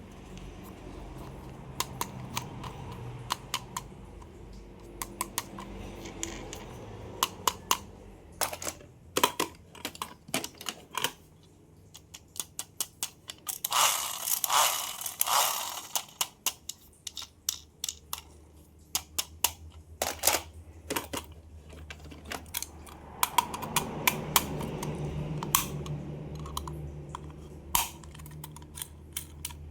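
Plastic toy cars and their packaging being handled close to the microphone: many quick clicks and taps, with a longer stretch of rustling about halfway through.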